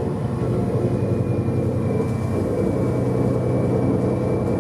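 Steady engine hum and running noise heard from inside the tour vehicle as it drives across the apron, with a faint high whine joining about a second in.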